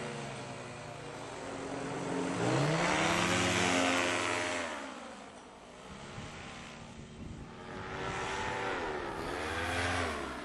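Paramotor's two-stroke engine and propeller running, the pitch rising and falling a few times as the throttle is opened and eased off, with a hiss of wind over it.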